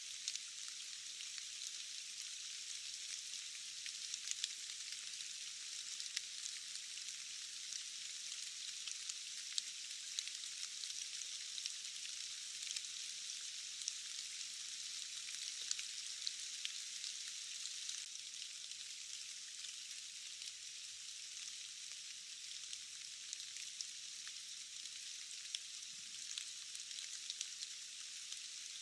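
Steady rain falling, heard as an even high hiss with scattered ticks of individual drops and no low rumble.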